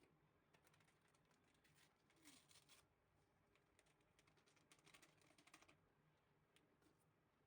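Near silence, with two faint stretches of quick, light clicking, the first starting about half a second in and the second in the middle.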